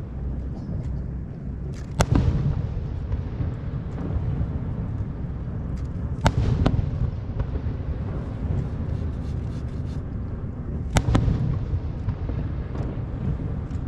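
Aerial fireworks bursting: three loud booms about four to five seconds apart, each trailing off in a low rumble, with a few lighter cracks in between.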